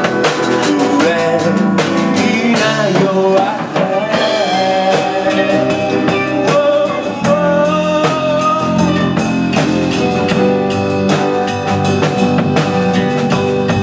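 A live band playing a song: a drum kit keeping a steady beat under guitar and a wavering melody line.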